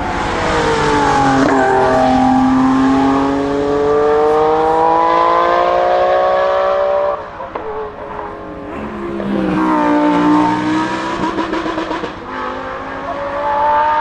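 Porsche 911 flat-six engine accelerating hard at full throttle, its note climbing steadily for several seconds before breaking off suddenly. A car engine then climbs in pitch again and drops back about twelve seconds in.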